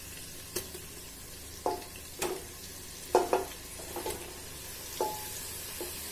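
Mutton mince sizzling as it is spooned into hot oil in a pressure cooker, with a spoon knocking sharply against the dishes about eight times.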